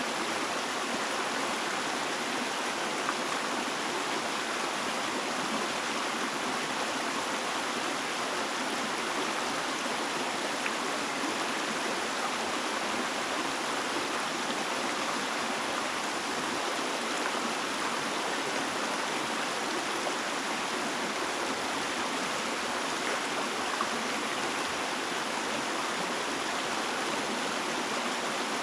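Flowing water running steadily: an even, unbroken rush like a stream.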